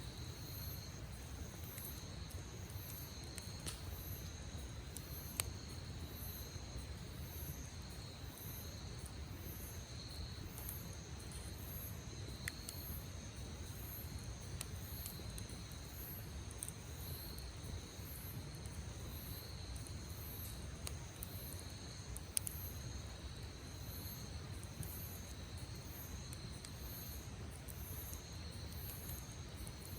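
Insects chirping in a steady pulsing rhythm, about once a second, over a low steady rumble. A few sharp pops of a crackling wood campfire stand out, loudest about five seconds in and again past twenty seconds.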